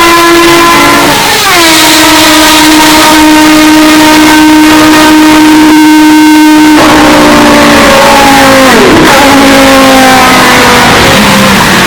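Historic Group C race car engines at high revs, very loud, passing close by. A high held note drops in pitch about a second in, and another car sweeps past with a sharp falling pitch near the end.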